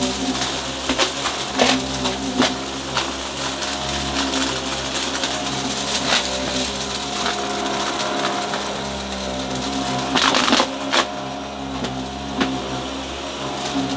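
Upright vacuum cleaner running steadily while sucking up crunchy debris, which crackles and clicks through the brushroll and hose throughout. A louder burst of rattling comes about ten and a half seconds in.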